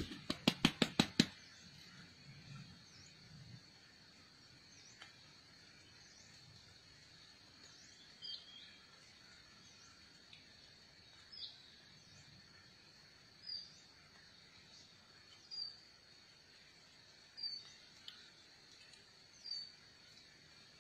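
A small bird giving a short high call about every two seconds over a steady, thin, high insect drone. Right at the start, a quick run of about eight sharp clicking chips.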